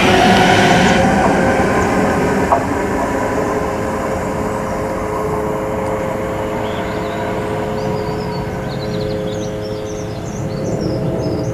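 Northern Class 323 electric multiple unit running away along the line, a steady electric motor whine fading as it recedes. For about the first second there is louder rumble from a train close by, which cuts off suddenly. Birds chirp near the end.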